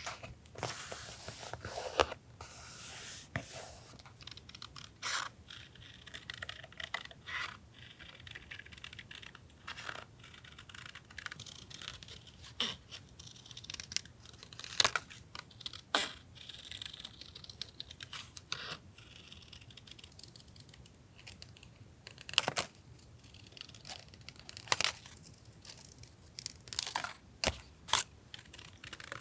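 Paper handled for a collage journal: sheets and stickers rustling, scraping and tearing, broken by sharp clicks and taps every second or two.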